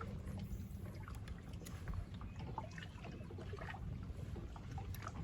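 Quiet water sounds at a small fishing boat: a low steady rumble of lapping water with scattered small clicks and trickles.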